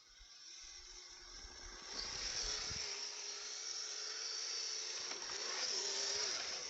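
Kyosho RC snowcat's electric drive running, a thin whine that wavers in pitch with the throttle, over a steady hiss of the tracks churning through snow that grows louder about two seconds in.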